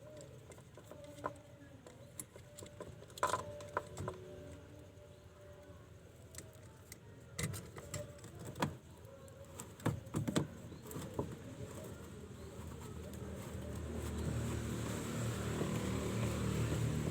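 Scattered clicks and knocks of washing-machine drain parts being refitted by hand. A low rumble builds near the end.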